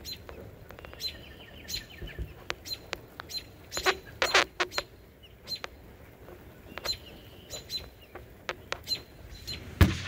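Small birds chirping in short high notes, with many sharp clicks throughout and a louder cluster of sounds about four seconds in.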